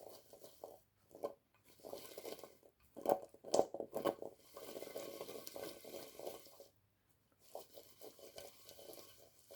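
Sweet potato wedges coated in oil and seasoning being stirred in a bowl: spoon scraping and clinking against the bowl in irregular bursts, with a few sharper knocks, a brief pause about three seconds in and a longer one near seven seconds.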